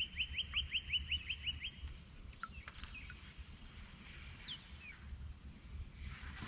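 A songbird calling: a quick run of short, high, down-slurred chirps, about five a second, that stops about two seconds in, followed by a few scattered chirps. A faint low rumble runs underneath.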